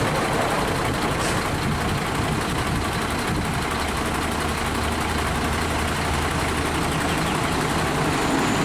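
Heavy trucks' engines running in jammed traffic, idling and creeping forward: a steady low engine hum under constant traffic noise.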